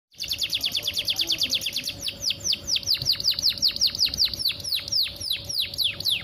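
Canary, which the recording presents as a female in breeding condition calling to males: a fast trill of rapidly repeated high notes, then about two seconds in a slower series of clear whistled notes, each sweeping downward in pitch.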